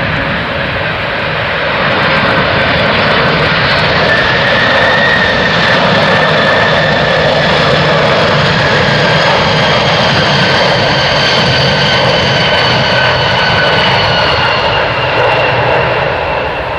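Boeing 747-400's four jet engines at approach power as the airliner passes, loud and steady, with high whining tones that slowly fall in pitch.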